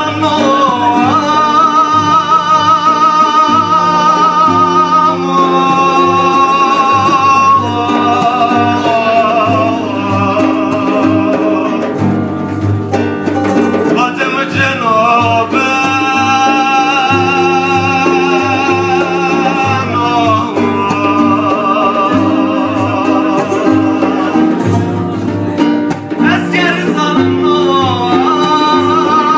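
Male voice singing a Turkish folk song in long held notes with heavy vibrato and sliding ornaments, over a steady plucked-string accompaniment.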